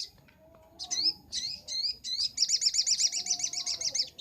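Little spiderhunter (sogok ontong) calling: a few separate sharp, high chirps, then from just past halfway a fast, steady run of repeated notes at about eight a second.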